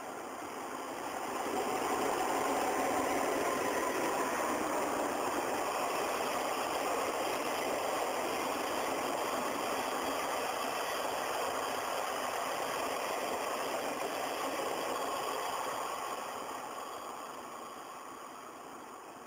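EF65 electric locomotive hauling a 5000-series EMU slowly past, a steady mechanical running noise of blowers, motors and wheels. It swells about one and a half seconds in, holds, and fades away after about sixteen seconds.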